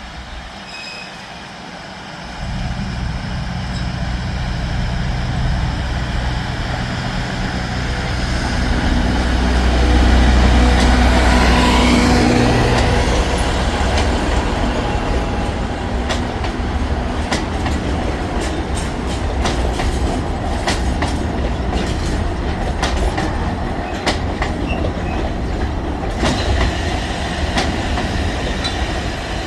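Alishan Forest Railway narrow-gauge diesel train arriving: the locomotive engine's low hum comes in a couple of seconds in and swells to its loudest around ten seconds in. After that the wheels click over rail joints again and again as the cars roll past.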